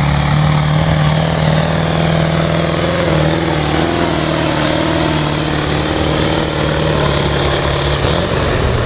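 V10 engine of a modified Major pulling tractor running loud and steady, its pitch stepping up slightly near the end.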